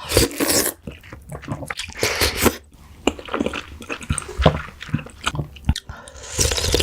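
Close-miked mouth sounds of a person chewing and biting a mouthful of malatang, with wet, crunchy, irregular clicks. There is a loud noisy burst right at the start.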